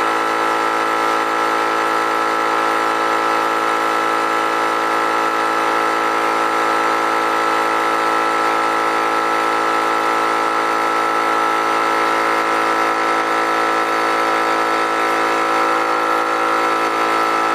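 Harbor Freight air compressor running steadily, its electric motor and pump building tank pressure toward the cut-out set on the pressure switch.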